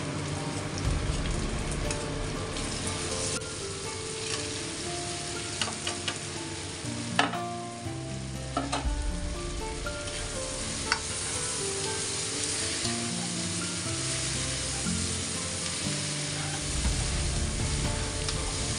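Chicken pieces frying in a pan, a steady sizzle, with a few sharp clicks, the loudest about seven seconds in. Background music plays underneath.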